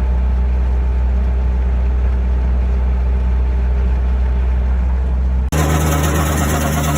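Heavy machine engine running steadily with a deep hum. About five and a half seconds in, the sound cuts abruptly to a stump grinder running, which is harsher and much brighter in the high range.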